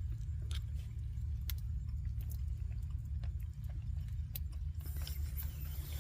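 Wood campfire crackling with scattered sharp pops, over a steady low rumble. A brighter hiss comes in near the end.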